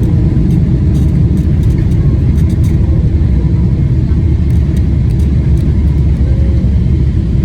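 Steady, loud low rumble of a Boeing 777-300ER on the ground after touchdown: its GE90 engines and rolling wheels.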